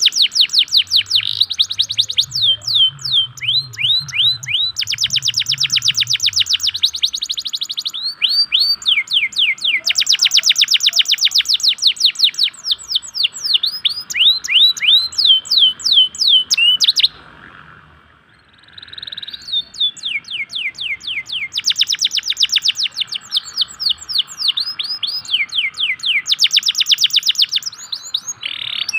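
Domestic canary (Indonesian local canary) singing a long song of very fast rolling trills alternating with series of downward-sweeping whistled notes. The song breaks off briefly a little past halfway, then resumes.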